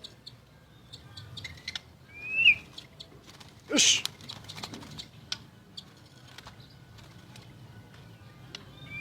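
White-rumped shama calling: scattered short clicks and ticks, a rising whistled note about two and a half seconds in, and a loud, harsh, noisy burst about a second later.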